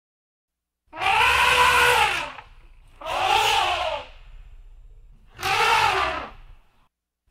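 Three loud animal cries, each about a second long and rising then falling in pitch, with short gaps between them.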